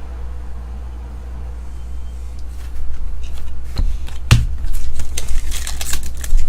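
Trading cards being handled and flipped through by hand. From a little before halfway there is a run of sharp clicks and rustles over a steady low hum.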